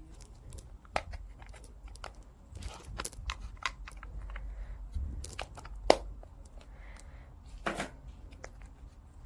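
Irregular clicks, taps and rustling of small objects being handled, with one sharp click about six seconds in and a short scraping rustle near eight seconds.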